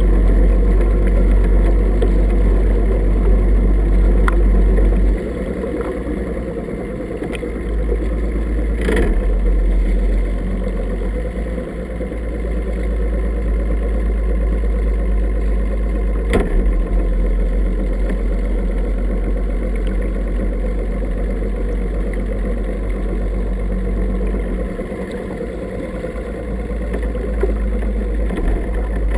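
Boat's outboard motor running steadily under way, with a strong low rumble; the level drops a little about five seconds in and rises again shortly after.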